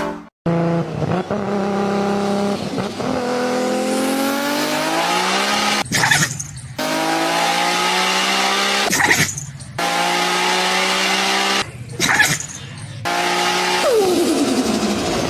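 A car engine running hard under acceleration, its pitch climbing slowly and broken off three times by short noisy gaps, with a falling sweep near the end.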